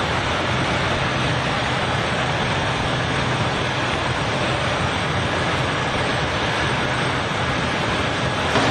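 A steady, even roar of noise with a low hum underneath, unchanging throughout.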